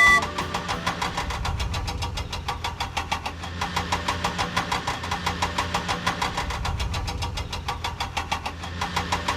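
Vehicle engine sound effect in a cartoon, running steadily with rapid even pulses, about eight a second.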